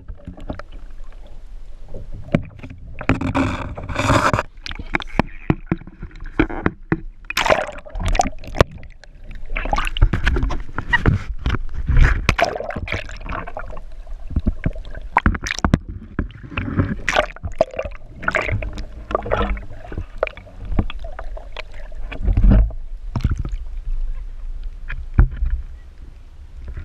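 Kayak paddling: paddle blades dipping and splashing in the water in irregular strokes, over a steady low rumble.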